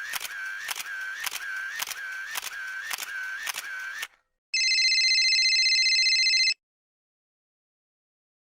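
A rapid run of clicks, about three a second, over a wavering tone for about four seconds. After a short gap a telephone rings once, an electronic ring lasting about two seconds.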